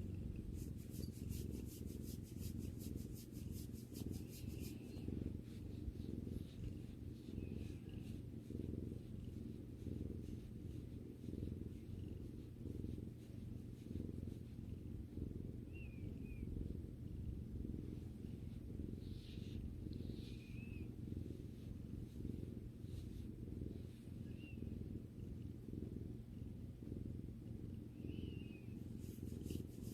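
Domestic cat purring steadily, a continuous low rumble heard up close.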